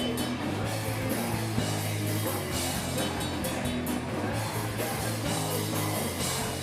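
Live rock band playing: distorted guitar, bass and drum kit with crashing cymbals.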